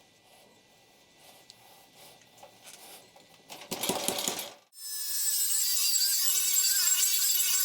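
Faint clicks of parts being handled, then a brief loud grinding burst that stops abruptly. About a second later a high-speed power tool starts and runs steadily with a high-pitched whine.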